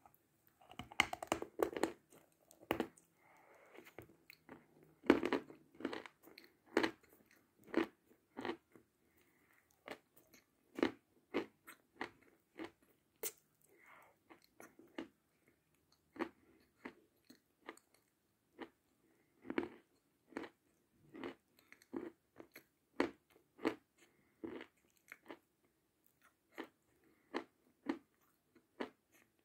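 A person biting and chewing a chunk of chalk spread with clay paste, held close to the mouth. Each bite gives a sharp, crisp crunch. The crunches come thick and loud in the first few seconds, then settle into single crunches about once a second.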